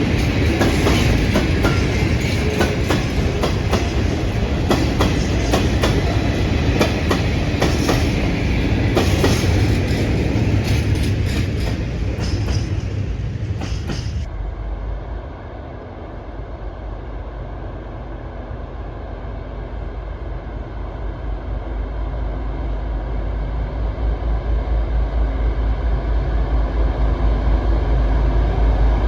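Train wagons passing close by, their wheels clacking over the rail joints in a dense run of clicks. About halfway through the sound changes suddenly to a low, steady rumble that grows louder towards the end.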